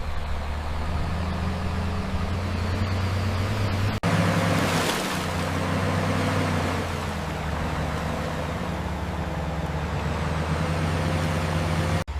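Dump truck engine running steadily with a low drone, over a noisy rush. The sound drops out for an instant about four seconds in, and again near the end.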